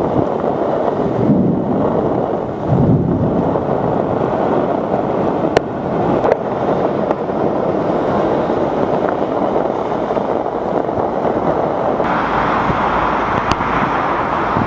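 Strong storm wind buffeting the microphone in gusts, with a few sharp clicks; about twelve seconds in, the noise turns brighter and steadier.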